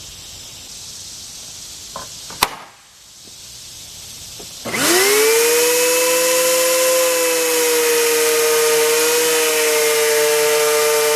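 A sharp click, then, almost five seconds in, a DeWalt 13-inch benchtop thickness planer's electric motor starts up, its pitch rising quickly and then holding steady as it runs at speed.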